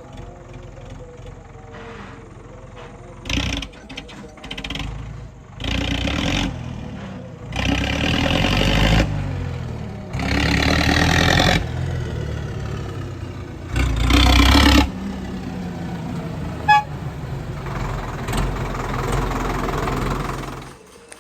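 Tractor engine running steadily, with several louder bursts of noise a second or so long coming and going over it.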